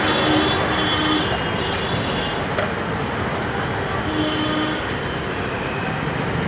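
Steady city road traffic noise, with motor vehicle engines running.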